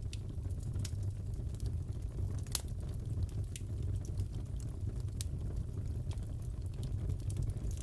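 Fireplace fire crackling: irregular sharp pops and snaps over a steady low rumble, with one louder pop about two and a half seconds in.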